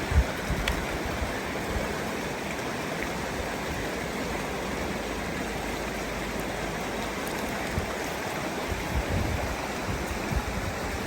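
River water rushing steadily, with a few brief low thumps near the start and again near the end.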